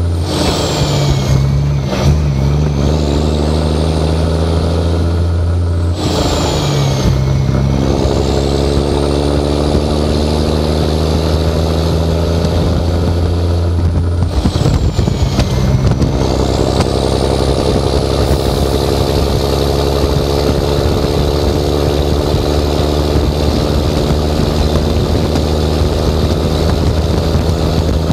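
Straight-piped 11.1 L Series 60 Detroit diesel pulling under heavy load, its revs breaking and picking back up at three gear changes through the 13-speed: about two seconds in, about six seconds in, and around fifteen seconds in. A high whistle drops and rises again with each shift.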